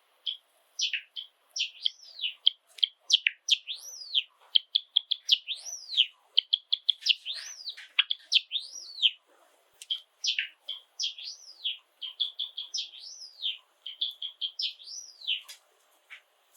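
Java sparrow singing: a long run of rapid clicking notes broken by arching whistled notes that rise and fall, stopping about a second before the end.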